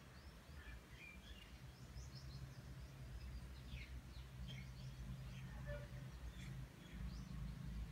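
Faint background ambience: a steady low hum, with scattered short chirps of small birds throughout.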